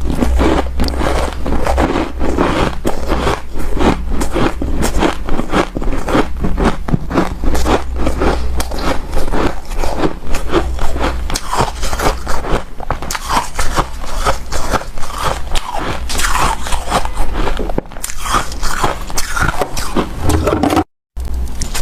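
Close-up biting and chewing of hard, powdery refrozen ice (freezer frost): a dense run of crisp crunches and crackles. The sound cuts out for a moment near the end.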